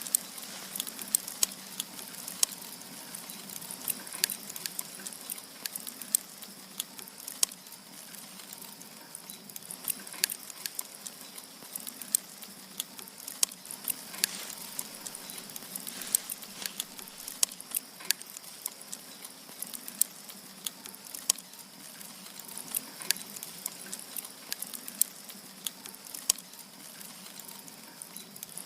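Firewood burning in a wood stove: a steady hiss with frequent irregular crackles and pops.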